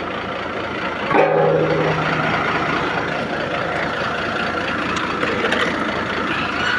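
Boom truck engine idling steadily, with a louder, higher-pitched sound starting about a second in and lasting about a second.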